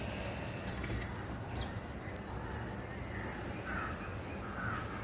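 Crow cawing, about three short calls in the second half, over a steady low hum.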